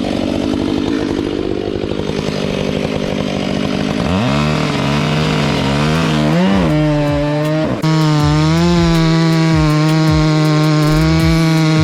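Chainsaw running at high revs, its pitch wavering up and down as it works in a cut, then holding steady after an abrupt change near the end.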